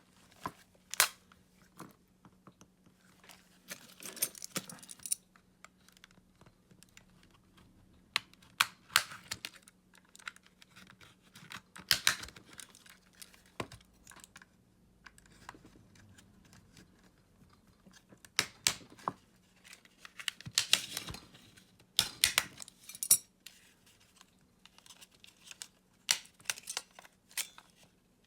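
Scattered sharp clicks, taps and short scraping or rustling of small hard plastic parts being handled, as a remote control is taken apart or worked on, over a faint steady low hum.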